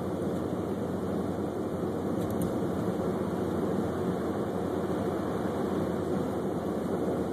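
Steady engine and tyre noise heard inside the cabin of a moving car driving on snow-covered roads.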